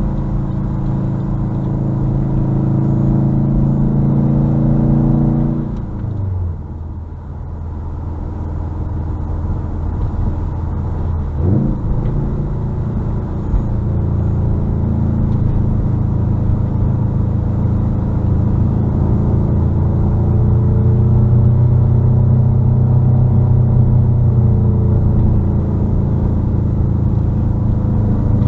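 2021 Subaru WRX STI's turbocharged 2.5-litre flat-four running through a muffler-deleted exhaust while driving. The engine note drops and quietens about six seconds in, gives a quick rev near twelve seconds, then carries on at a steady, slightly rising pitch.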